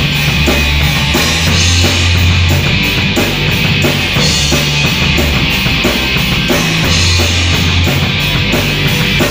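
Rock band playing live: drum kit and bass with a heavy, driving beat, the bass notes changing about every second.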